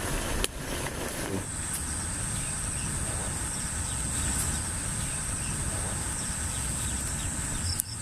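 A steady high-pitched insect drone starts about a second and a half in and holds, over a low steady background noise.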